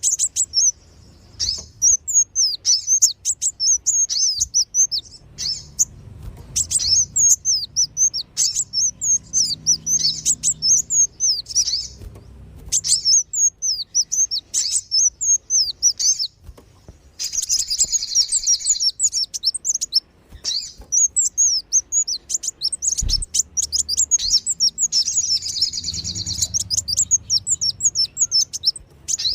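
Bird-lure recording of sunbirds (kolibri wulung and sogon): rapid, high-pitched chirping twitters in phrases of a few seconds with short breaks between them, growing denser about two-thirds of the way through and again near the end.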